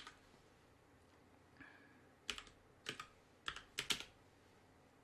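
A handful of computer keyboard keystrokes, single and in quick pairs with gaps of about half a second between them.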